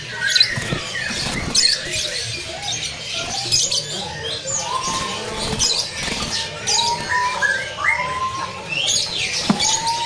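A caged bulbul fluttering and hopping about its cage, with wing flaps and scrabbling against the bars and perch. Many small birds chirp and whistle around it.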